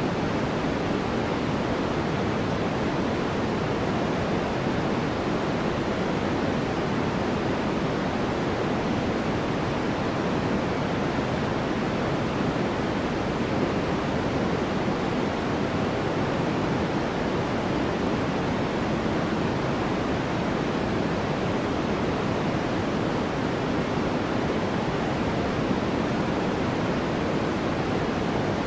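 Continuous, unchanging white-noise-style sleep sound, a soft even hiss weighted toward the lower range rather than the highs.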